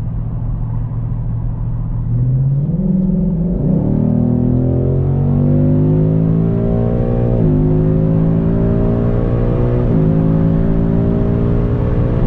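Ford Mustang GT's 5.0-litre V8 pulling under acceleration. Its note climbs in pitch and drops back at two upshifts, about seven and a half and ten seconds in, then climbs again.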